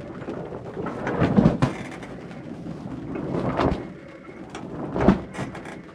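Wind buffeting the microphone on a sailboat's deck, a rushing noise that swells in gusts: a strong one about a second in, another after three and a half seconds, and the loudest near the end.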